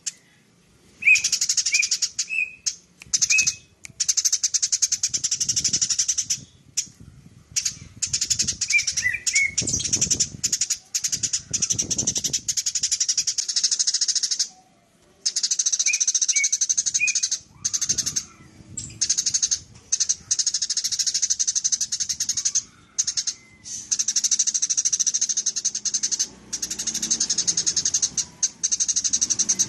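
Eurasian tree sparrow chattering in a rapid, continuous trill (the 'nyrecet' call), in runs of several seconds broken by brief pauses, with a few separate short chirps.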